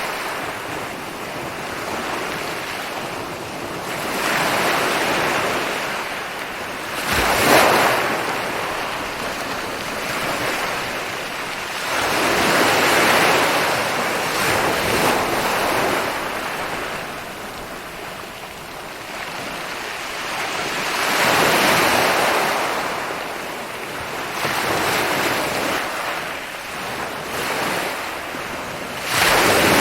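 Ocean surf rolling in and breaking on a beach, a wash of noise that swells and fades every few seconds, with a sharper break about seven seconds in and another at the very end.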